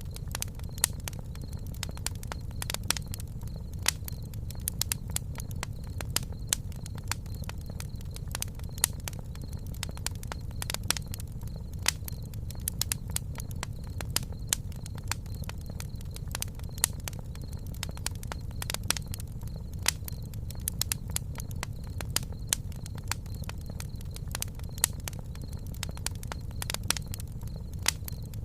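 Campfire burning, its wood crackling with frequent sharp pops over a steady low rumble.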